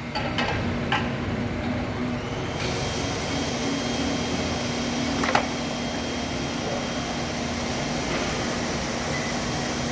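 Steady machine hum with a low droning tone, growing fuller about two and a half seconds in. A few short clicks come near the start, and one sharp click about five seconds in.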